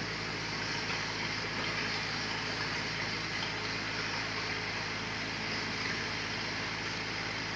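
Sawmill machinery running steadily: an even, unchanging noise with a low hum underneath.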